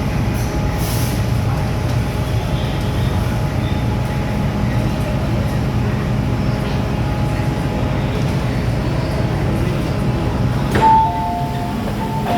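MTR M-Train metro car running, a steady low rumble heard from inside the car. Near the end a sharp click is followed by a two-note electronic chime, high then lower, played twice.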